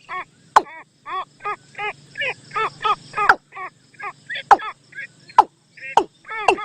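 Bird-lure recording of repeated short bird calls, about three a second, each a quick note that bends downward, with sharp loud clicks mixed in every second or so.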